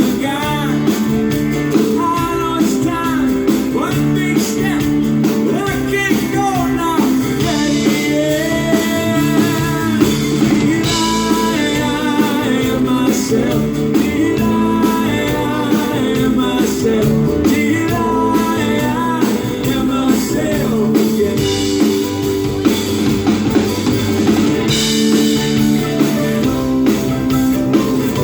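Live band playing a rock song, with a voice singing over guitar and a drum kit.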